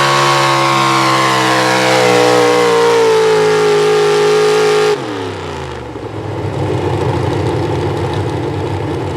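Pro Stock four-wheel-drive pulling truck's engine screaming at high revs under load, its pitch sagging slightly. About five seconds in the throttle is cut and the revs fall away quickly into a lower, rougher rumble as the run ends.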